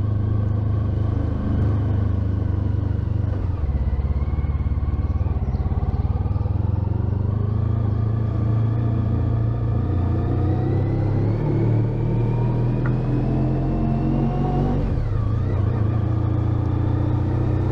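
Honda ST1300 Pan European's V4 engine running under way on the road. Its pitch climbs slowly as the bike gathers speed, then dips sharply and picks up again near the end, like a gear change.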